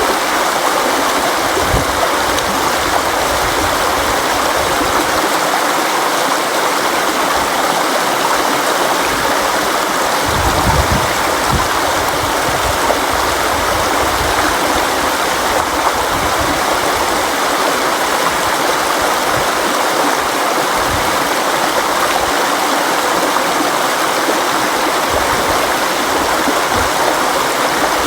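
Steady rushing of a flowing river or stream, an even water noise with no pauses and an occasional low gurgle.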